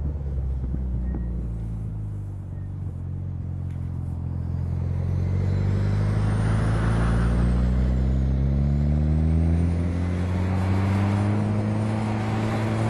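Truck engine running hard, its pitch climbing steadily from about four seconds in as it revs up. A faint high squeal glides up and down over it.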